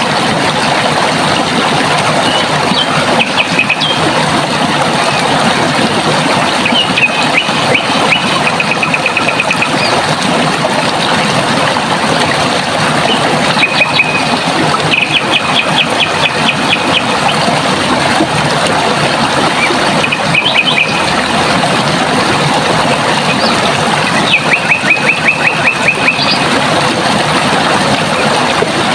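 Steady rush of running water, with a bird singing a rapid trill of short, even notes. The trill comes every few seconds, each burst lasting a second or two.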